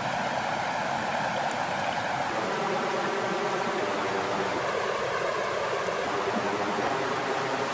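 Lake water flowing and lapping with a steady, even rush.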